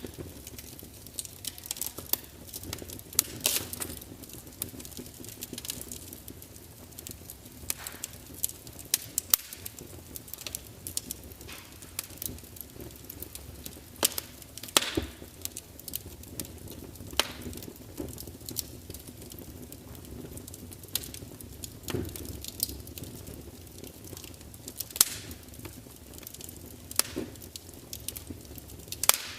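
Wood fire burning in a large fireplace, logs crackling with irregular sharp pops and snaps over a low steady rumble of the flames.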